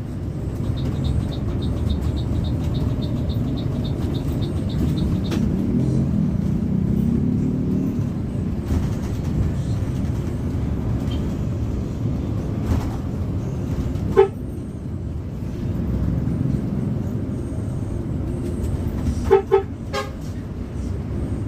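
Steady low rumble of a moving bus's engine and road noise, with a short horn toot about two-thirds of the way through and two quick toots near the end. A fast, regular high ticking runs through the first five seconds.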